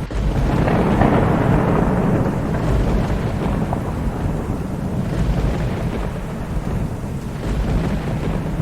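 Thunder rolling over steady rain: a rumble swells up right at the start, is loudest about a second in, and rolls off over the next few seconds while the rain carries on.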